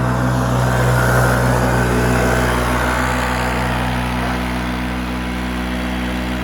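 Vehicle engine running steadily in fifth gear, its pitch holding level, a little louder in the first couple of seconds and then easing off slightly.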